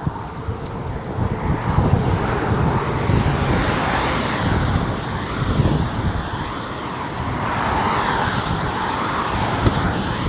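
Road traffic on a highway: a steady rush of passing vehicles' engine and tyre noise that swells and fades.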